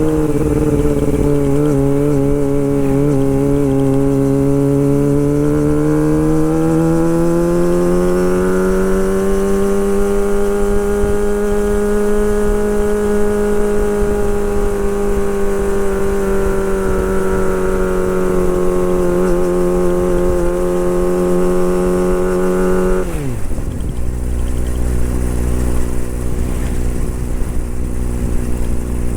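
Kawasaki Ninja ZX-25R's 249 cc inline-four engine held at high revs while warming up, its pitch dipping slightly and then climbing and holding steady. About 23 seconds in the throttle is released and the revs fall sharply to a steady idle.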